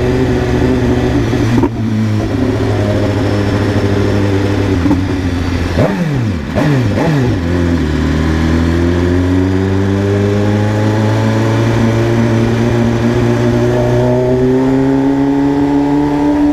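BMW S1000RR's inline-four engine running at steady revs. About six seconds in the pitch drops quickly, and from there the revs climb slowly and steadily as the bike accelerates.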